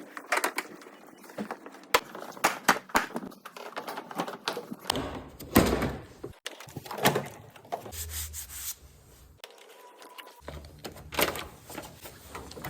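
Tools and parts clicking and knocking during repair work, with a small electric motor, like a cordless power tool, running in short bursts about a third of the way in, again briefly, and near the end.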